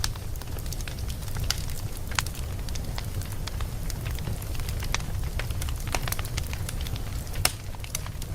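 Wood fire burning in a fireplace: a steady low rumble of the flames with irregular sharp crackles and pops from the burning logs, one louder pop near the end.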